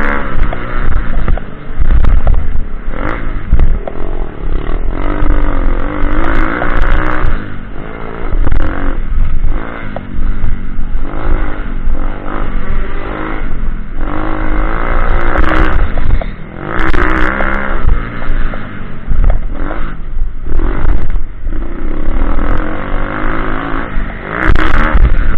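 Pitbike's small single-cylinder engine revving up and down again and again as it is ridden round a dirt track, with a heavy low rumble and scattered clattering knocks.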